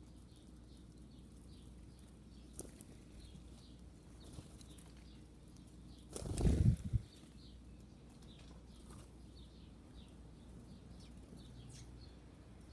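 Small birds chirping faintly and repeatedly, with a brief loud, low fluttering burst about six seconds in: a bird's wings flapping close to the microphone.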